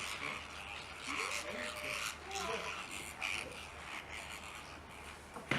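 Faint, patchy chatter of distant voices mixed with bird calls, with one sharp click near the end.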